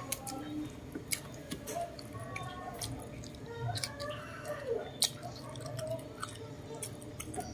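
Close-up chewing and lip-smacking of a person eating roast chicken by hand, with many short, sharp, wet mouth clicks.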